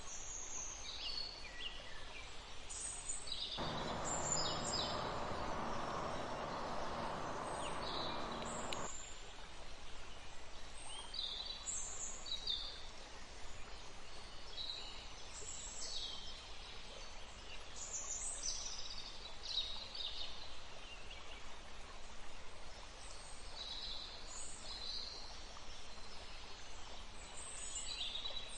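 Forest birds chirping, short high calls repeated throughout, over a faint steady rush of running river water. From about three and a half seconds in, a louder rushing noise with a low hum sets in and cuts off suddenly around nine seconds.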